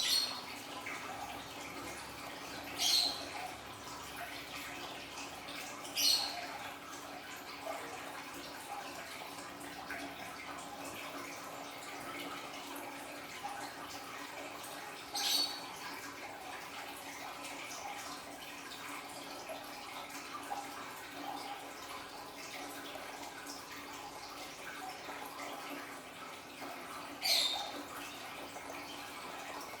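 Water from an aquarium's small waterfall trickling and splashing steadily, with five brief louder splashes or drips.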